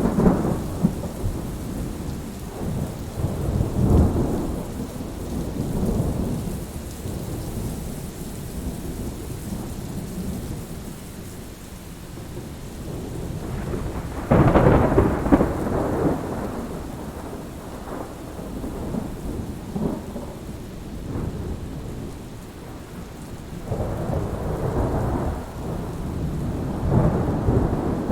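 Thunderstorm: steady rain falling with repeated rolling rumbles of thunder. A louder peal of thunder breaks suddenly about halfway through, and more rumbles swell near the end.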